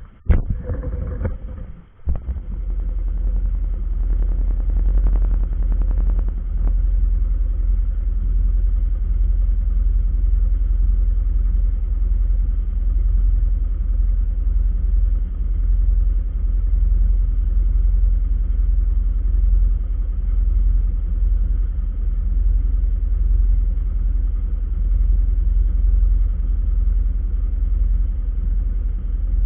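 Steady low rumble of a vehicle on the move, after a couple of sharp knocks and bumps in the first two seconds.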